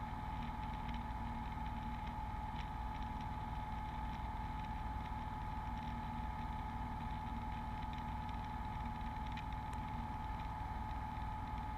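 Beechcraft Bonanza V35's piston engine droning steadily in the cockpit, with a thin steady high whine over it.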